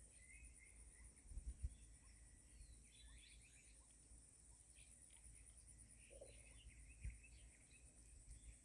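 Faint outdoor ambience: a steady, fast-pulsing high-pitched insect trill, with scattered short bird chirps and a few soft low thumps.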